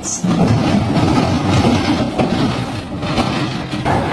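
Heavy dump truck running, with a dense, steady rattle and clatter.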